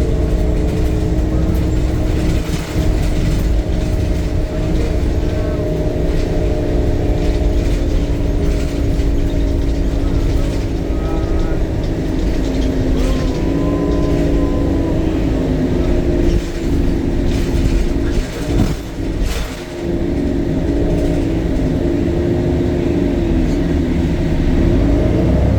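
Temsa Avenue LF city bus under way, heard on board: its DAF Euro 5 diesel engine and ZF automatic gearbox run with a steady whine whose pitch shifts as the bus changes speed. There is a brief dip about three-quarters of the way through, then the pitch rises near the end as the bus pulls away again, with occasional rattles from the body.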